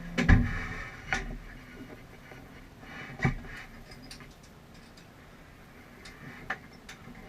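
A few sharp knocks and clicks: a loud thump about a third of a second in, smaller knocks about a second in and just after three seconds, then light clicks near the end.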